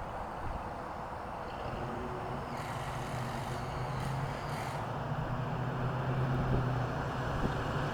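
1958 Chevrolet 3100 Apache pickup's engine running, a steady low hum that grows gradually louder.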